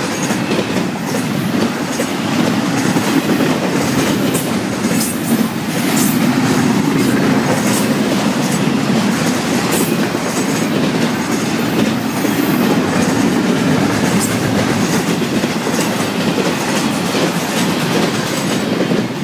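Double-stack intermodal freight train's well cars rolling past, a steady rumble of steel wheels on the rails with scattered sharp clicks.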